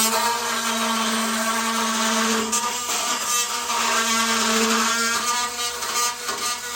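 Electric drill motor running steadily with a whining hum, its pitch sagging briefly a few times as it works under load.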